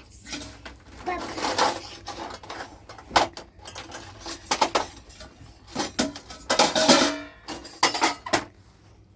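Dishes and cutlery clattering and clinking: a run of irregular knocks and clinks, a few ringing briefly, with some scraping.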